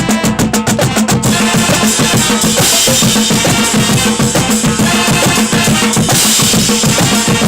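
Marching band drumline playing a fast, loud cadence: rapid snare and tenor drum strokes over bass drums, with cymbals coming in about a second in and ringing on.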